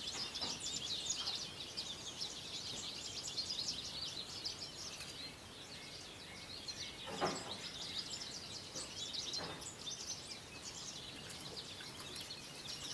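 Dense, continuous high-pitched chirping of many small birds in the background, with one brief louder sound about seven seconds in.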